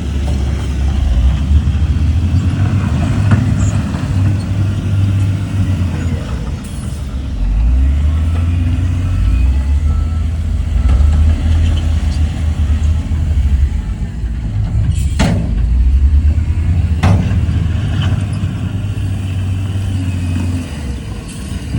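Heavy diesel engine of earthmoving equipment running under load, a deep rumble that swells and eases. Two sharp knocks about two seconds apart come roughly fifteen seconds in.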